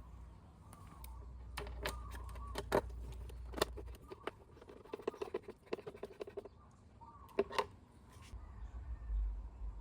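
Scattered sharp clicks and light knocks of small tools and parts being handled, most of them between about one and four seconds in and two more later, over a low rumble.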